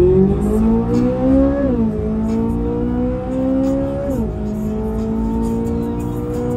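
Chevrolet Corvette C8 Z06's flat-plane-crank V8 accelerating, its pitch climbing steadily and dropping sharply at two quick upshifts of the dual-clutch gearbox, about two and four seconds in. Heard from inside the cabin.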